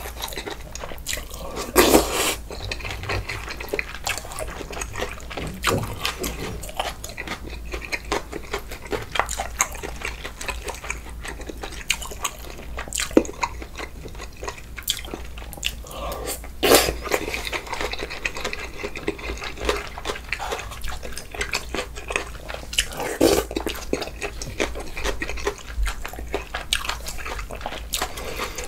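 Close-miked eating sounds of a man eating bulgogi hot pot: steady wet chewing and mouth noises, with a few louder moments about two, seventeen and twenty-three seconds in.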